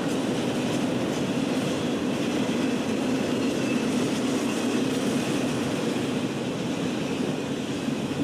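Two Norfolk Southern freight trains passing each other on adjacent tracks: a steady rolling noise of freight cars' wheels on the rails.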